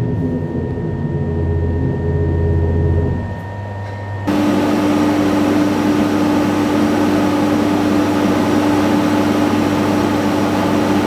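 2023 Yamaha R1's crossplane inline-four running at a held, steady speed on a dynamometer, as in fuel-map tuning. About four seconds in it jumps to a louder, steady high-revving drone with one strong steady tone.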